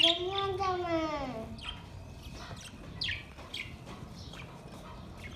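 Pet budgerigars chirping in short, scattered high calls. In the first second and a half there is one drawn-out call that rises and then falls in pitch.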